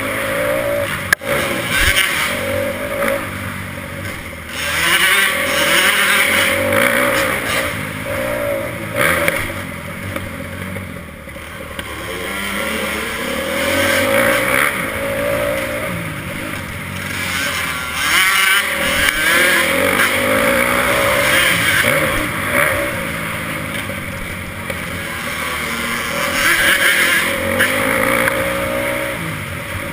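Motocross bike engine revving up and down through the gears as it is ridden, its pitch rising and falling over and over.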